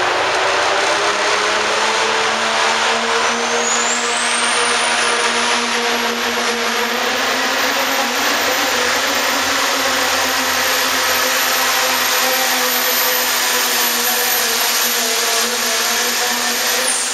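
Pro stock diesel pulling truck running loud at full throttle down the track, with a high whine that climbs in pitch about three seconds in, holds steady, then falls away near the end.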